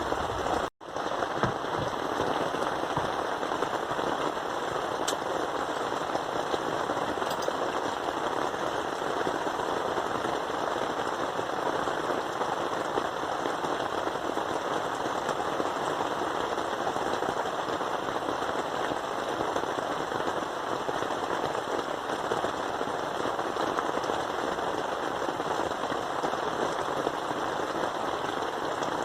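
Steady heavy rain hitting a surface in a dense, even patter. It cuts out for a split second just under a second in.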